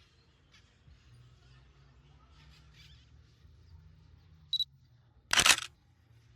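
A short high beep, then a camera shutter click about a second later, over a faint low hum.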